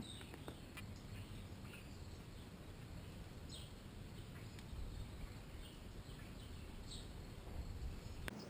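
Faint low background rumble with two short bird chirps, one about three and a half seconds in and one about seven seconds in.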